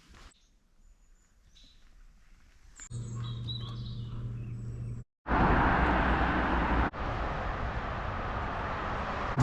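Faint birdsong, then a steady low engine hum with birds chirping over it, then, after a brief cut about halfway through, loud steady road and engine noise of a moving car.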